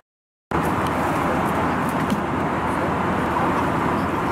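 Steady cabin noise of an Airbus A321 airliner in cruise: an even rushing of air and engines that starts after half a second of silence.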